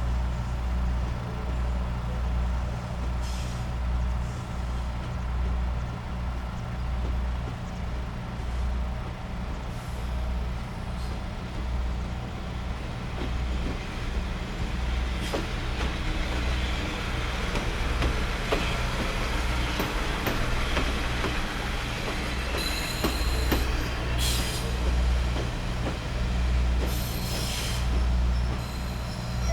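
Kominato Railway's Satoyama Torokko train, hauled by its steam-styled diesel locomotive, pulling out: a low rumble that pulses about once a second, under wheel noise on the rails that swells in the middle. A short high wheel squeal comes about three-quarters of the way through.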